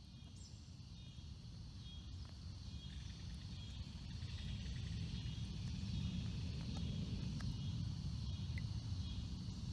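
A low rumble that grows steadily louder over the first five seconds or so and then holds, with faint insects chirring high above it.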